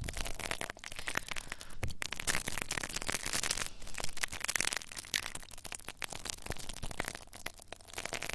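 Close-miked ASMR trigger sounds: dense crackling and scratching against the microphone, rising and falling in swells.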